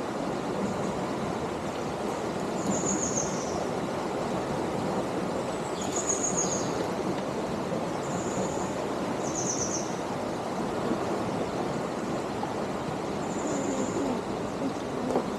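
Steady rush of flowing water, with short high bird chirps heard several times over it.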